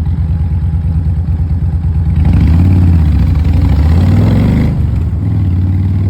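Kawasaki Vulcan motorcycle engine idling with a pulsing beat, revved up about two seconds in and held for a couple of seconds before dropping back to idle.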